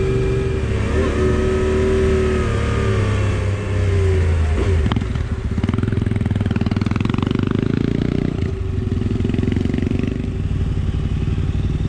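Motorcycle engine running under way on a dirt road, its pitch easing down over the first few seconds, a short knock about five seconds in, then steady running.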